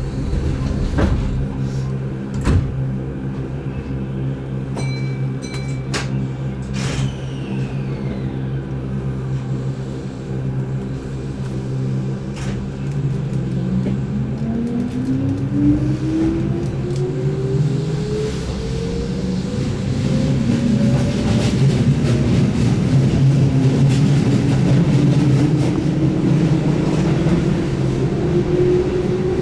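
Keihan 8000 series electric train heard from inside the car: a few knocks while it stands, then it pulls away about 13 seconds in. Its DC traction motors give a whine that climbs steadily in pitch and grows louder as it accelerates, with a second rising whine joining later.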